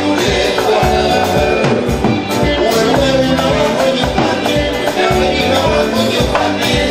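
Live band music with a steady bass beat, shaken percussion and some singing.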